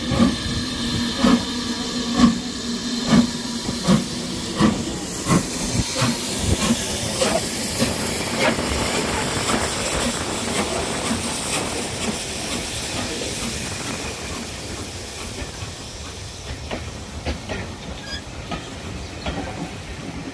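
Steam locomotive pulling away, its exhaust beats about a second apart and quickening over the first several seconds, with steam hissing. The beats then run together into a steady rush that slowly fades.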